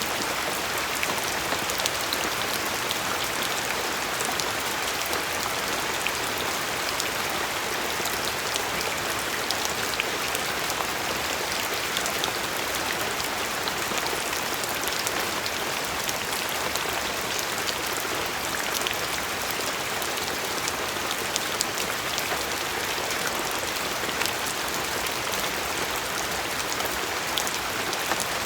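Steady rain falling on a surface, with a dense patter of individual drops ticking over an even hiss.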